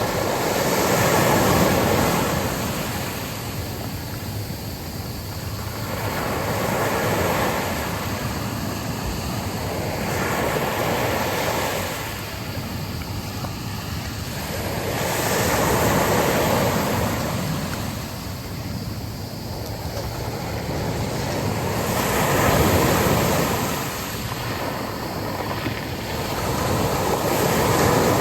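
Sea waves breaking and washing up on a beach, the noise of surf swelling and falling away in slow surges every few seconds.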